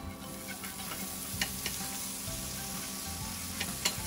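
Minced garlic sizzling in melted butter in a frying pan while wooden chopsticks stir it. A few light clicks come through, the sharpest near the end.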